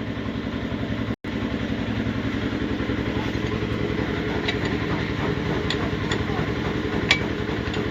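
A steady engine-like drone of running machinery, with a brief cut about a second in and a few sharp metal clinks in the second half.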